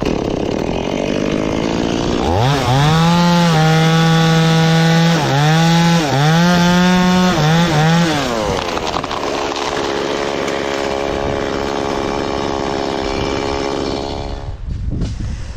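Two-stroke chainsaw revved up and cutting wood, its high engine note dipping under load and recovering several times. It then drops to a lower, steadier speed for several seconds and stops near the end.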